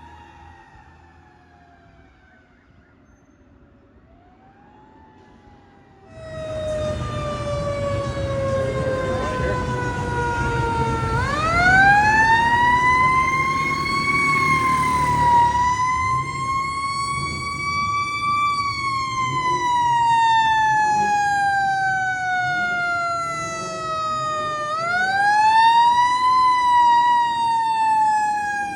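Fire truck siren wailing, faint at first, then loud from about six seconds in as the truck's engine rumble comes up with it. The wail climbs quickly and sinks slowly, twice.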